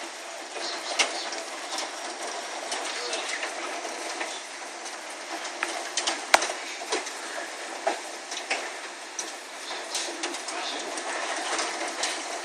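Golf-ball- to baseball-sized hail pelting down: a steady hiss of falling ice with many irregular sharp cracks of hailstones striking hard surfaces, the loudest about six seconds in.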